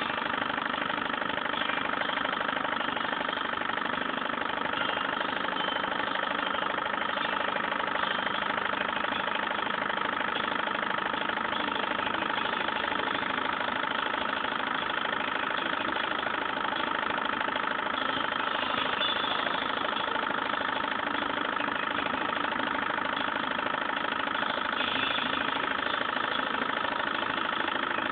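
Stirling engine running steadily, an even mechanical hum with no change in speed.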